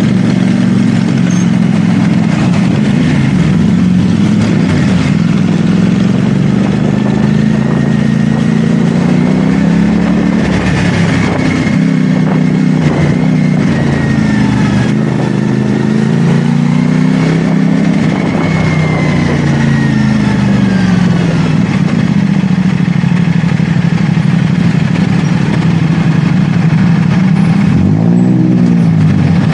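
CFMoto 450SR S parallel-twin engine running under way, its pitch stepping and gliding up and down with throttle and gear changes. Near the end, a quick rev rises and falls.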